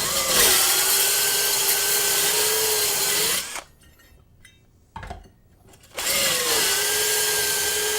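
Power drill spinning a hone inside the chamber's cathode tube to clear out debris, in two runs of a few seconds each with a short pause between them. Each run's whine drops in pitch as it starts and then holds steady, over a grinding hiss.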